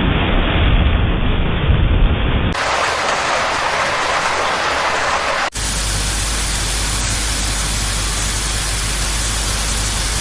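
Steady rushing noise in three spliced stretches: a heavy rumbling rush for about two and a half seconds, then a thinner hiss, then after a sharp cut about five and a half seconds in, an even, fuller rush.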